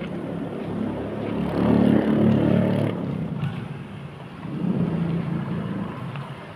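A motor vehicle engine swelling as it passes and fading, then a second, weaker swell near the end.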